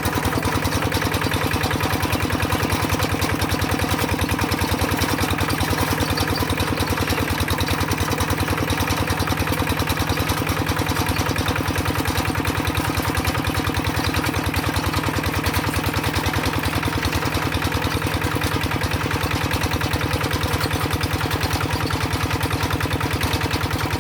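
Tractor engine idling steadily with an even, rapid firing beat that holds the same speed and level throughout.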